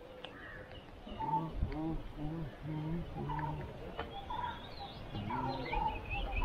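Birds calling: a run of about five short, evenly spaced low calls, with higher chirps over them.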